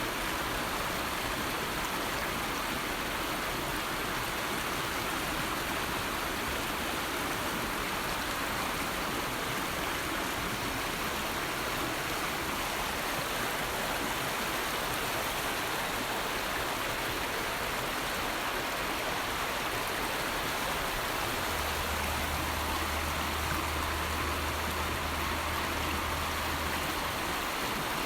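River water flowing smoothly, a steady, unbroken rush of moving water. A faint low hum joins for several seconds near the end.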